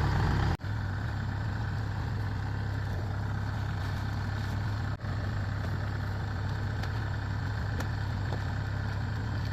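Heavy diesel machine engine running at a steady speed with a low hum, briefly cutting out twice.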